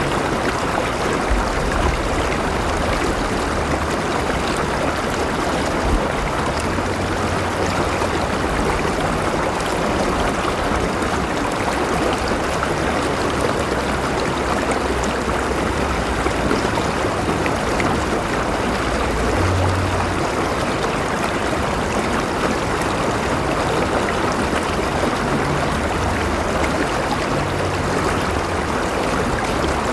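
River water flowing and babbling over rocks, a steady rushing sound.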